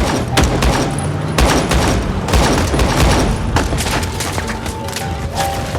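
Film-soundtrack gunfight: a fusillade of gunshots in quick succession, mixed with heavy booms.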